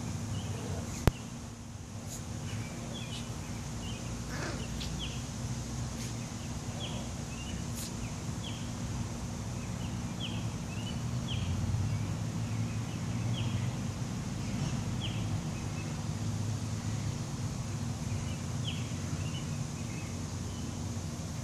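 Outdoor ambience: a bird chirping repeatedly, short high chirps every second or so, over a steady low hum. A single sharp click about a second in.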